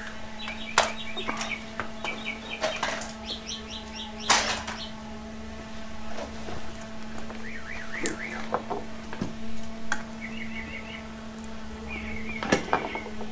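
Small birds chirping in short, repeated phrases, with several sharp clicks and knocks of handling (the loudest about four seconds in) over a steady low hum.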